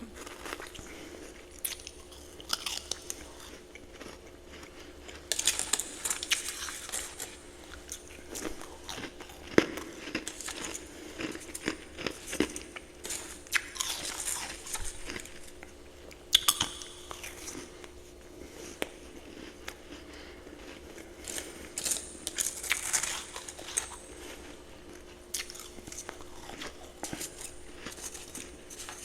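A person biting and chewing ice close to the microphone: many crisp crunches coming in irregular clusters, with a faint steady hum underneath.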